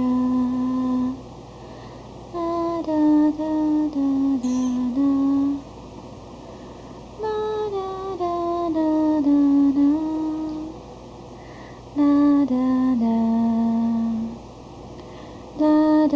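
A woman's voice singing a wordless tune in short phrases of held notes that step downward in pitch, with pauses between the phrases.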